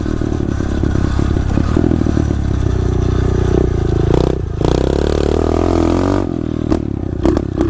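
SSR 125 pit bike's single-cylinder four-stroke engine running under a rider, its pitch falling and rising with the throttle. Sharp knocks and rattles from the bike come in near the end.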